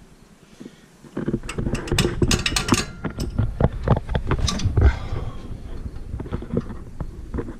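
Irregular metal knocks and clatter from tools working on a truck's rear brake assembly. They start about a second in, come thick and loud for a few seconds, then thin out to scattered knocks.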